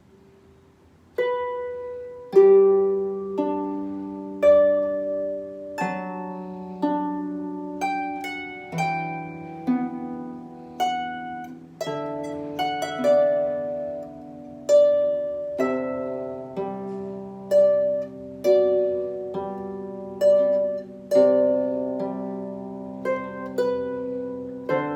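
Harp played slowly: single plucked notes about one a second, each ringing and fading, with lower notes sounding beneath the melody. The playing starts about a second in, after a faint fading ring.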